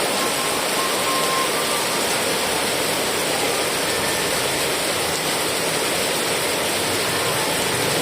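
Heavy rain falling steadily, an even, unbroken hiss with no single drops or gusts standing out.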